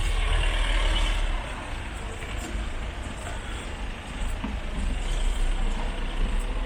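Street traffic: a heavy vehicle's engine running with a deep rumble, loudest in the first second or so and building again in the second half.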